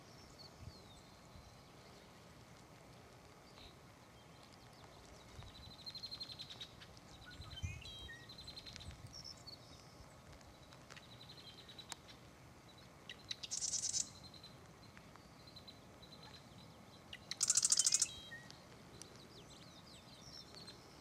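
Wild birds calling: high rapid trills and scattered chirps. In the second half come two louder harsh, buzzy pulsed calls, the second the loudest.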